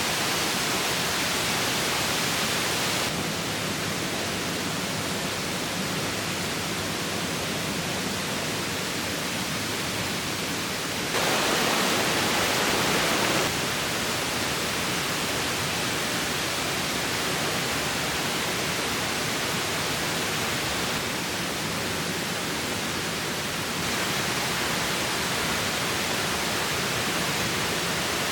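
Steady rushing of river water, an even hiss with no distinct events. It jumps in loudness a few times, louder for a couple of seconds just past the middle.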